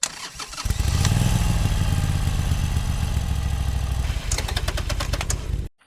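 An engine starts about half a second in and runs steadily at a fast idle, then cuts off abruptly.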